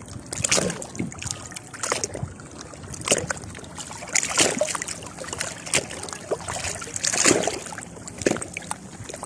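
Sea water splashing and sloshing in irregular surges, one roughly every second, over a steady wash.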